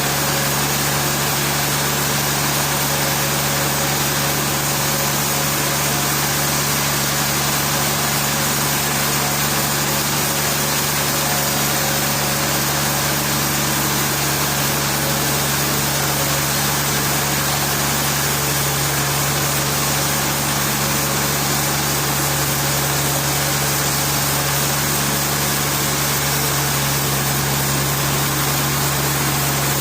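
Sawmill machinery running steadily: a constant low hum under an even mechanical noise, with no change in pitch or level.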